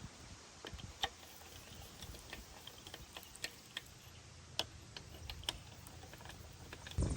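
Scattered light clicks and taps at irregular intervals over a faint steady background hiss, with a louder low rumble starting right at the end.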